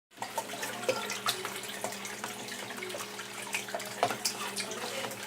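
Water splashing and dripping in a turtle tank as red-eared sliders feed at the surface, with many short sharp splashes and clicks over a steady low hum.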